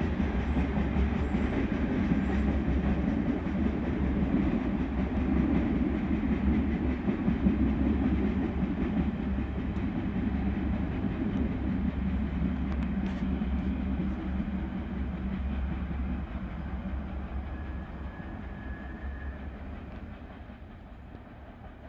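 Freight oil train rolling along the rails: a steady low rumble with wheel clatter, fading away steadily over the second half as the train moves off.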